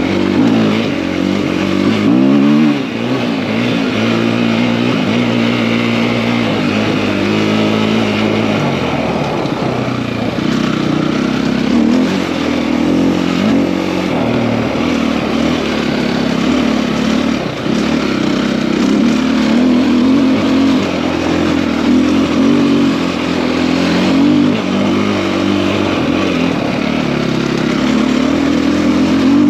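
KTM EXC-F enduro motorcycle's single-cylinder four-stroke engine, fitted with a 280 big-bore kit, under way. The engine pitch rises and falls repeatedly as the rider opens and closes the throttle and shifts gears.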